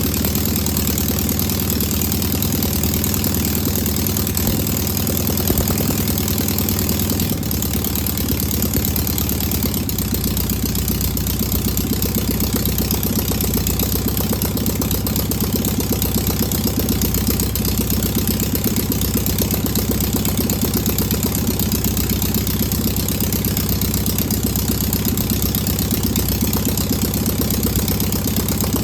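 Air-cooled VW Beetle single-port flat-four engine running steadily at idle. Its note changes about seven seconds in, and a deeper hum sets in a few seconds later. The owner calls it a good running engine.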